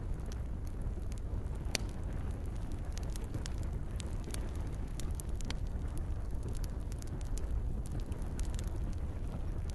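Campfire crackling: irregular sharp pops and snaps over a steady low rush of burning wood, with one louder pop about two seconds in.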